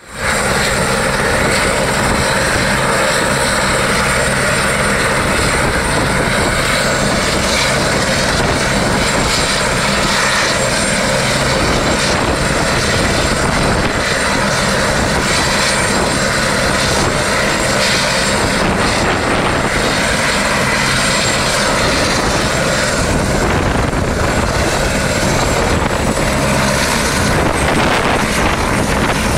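Helicopter running loud and close, a steady dense rotor and turbine noise with rapid low beating from the rotor blades.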